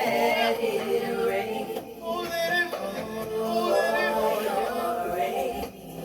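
Gospel worship music with a solo voice singing long notes that bend up and down over a sustained accompaniment.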